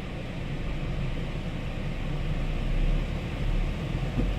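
2005 Toyota Celica GT's four-cylinder engine running at low revs as the car creeps forward up drive-on ramps, heard from inside the cabin. The low rumble swells a little about three seconds in.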